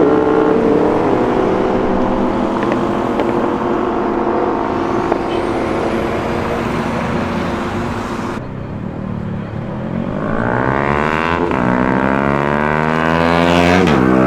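Superbike engines running loudly. Near the end one bike accelerates hard, its engine note climbing in pitch twice and breaking off sharply between climbs.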